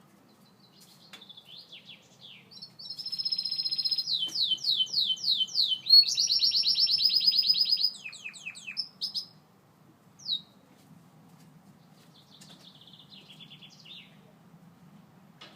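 Gloster canary singing: twittering notes build into loud, rapid trills and downward-sweeping notes, then break off into a single note and a softer twitter near the end.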